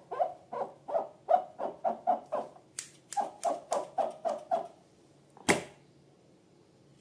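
A fast run of short, squishy pulses, about three a second, which stops a little before five seconds in. A single sharp snap follows about half a second later.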